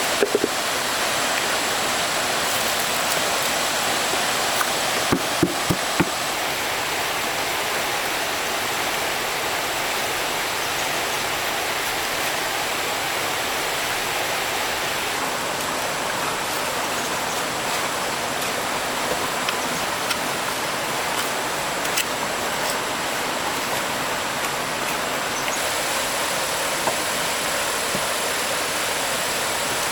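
Water running steadily in a stream, with a few short knocks about five to six seconds in.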